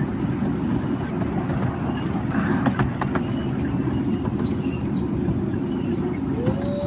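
Miniature railway train running, a continuous low rumble with clatter and clicks from the wheels on the track. A steady tone sets in near the end.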